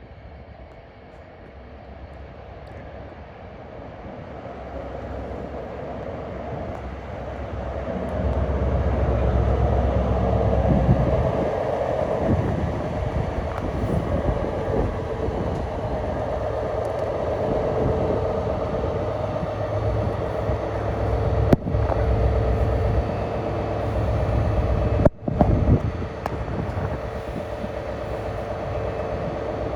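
Diesel-electric locomotive of DB class 223 (Siemens ER20 Eurorunner) hauling a passenger train, its engine running low and loud. It builds up over the first eight seconds and then holds steady. There is a sharp click about 21 seconds in and a brief break in the sound about 25 seconds in.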